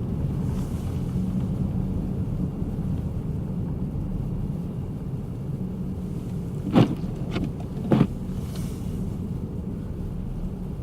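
Steady low road and engine rumble inside a car's cabin while driving on snow, with three short sharp knocks about seven to eight seconds in.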